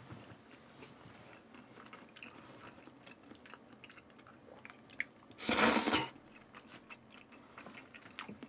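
Close-miked chewing of raw salmon: soft wet mouth sounds and small clicks. About five and a half seconds in there is one loud half-second rush of hissing noise.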